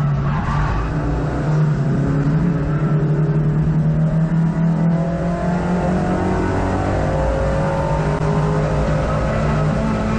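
Hot hatch race car's engine heard from inside the cabin, running hard and loud. The pitch dips briefly right at the start, then holds fairly steady.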